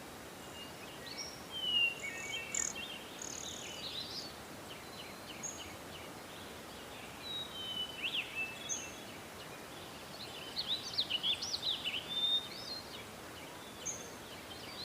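Forest ambience of many songbirds chirping and whistling over a steady background hiss, with a busier burst of calls about two-thirds of the way through.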